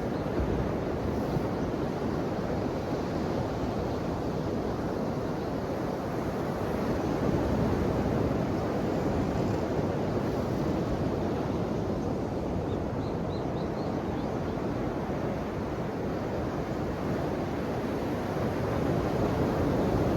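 Ocean waves breaking and washing on the shore in a steady surf, swelling louder about eight seconds in and again near the end.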